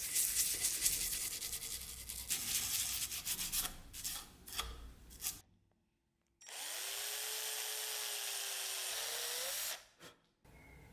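Hand scraping or rubbing with many short strokes, then, after a break, a small power tool spinning up and running steadily with a whine that rises again just before it cuts off.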